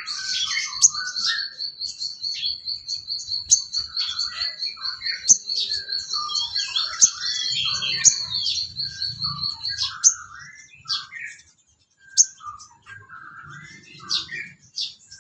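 Songbirds singing: a rapid, evenly pulsed high trill runs for about ten seconds, over a mix of varied chirps and whistles, which carry on after the trill stops, with a brief pause about twelve seconds in.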